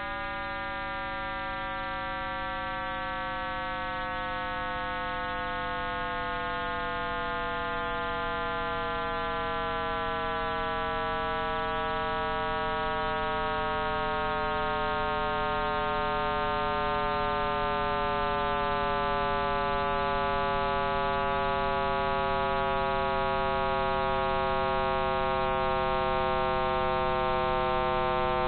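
Computer-simulated sound of the Big Bang: a deep droning hum made of many stacked tones that slide slowly and steadily lower in pitch over a low rumble, while slowly growing louder.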